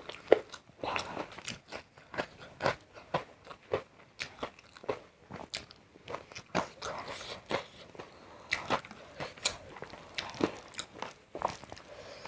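A person chewing and biting into crisp food close to the microphone: a rapid, irregular string of sharp crunches with softer chewing between them.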